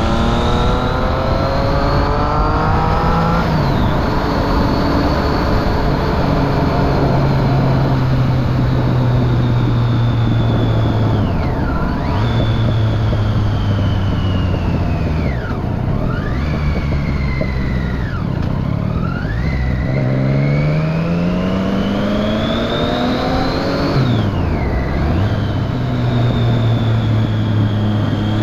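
2013 Triumph Street Triple 675's three-cylinder engine through a Remus Hypercone exhaust with dB killer, under way: it revs up through a gear at the start, holds a steady pitch for several seconds, drops off sharply a few times as the throttle closes or the gear changes, and climbs again about two thirds of the way in before settling.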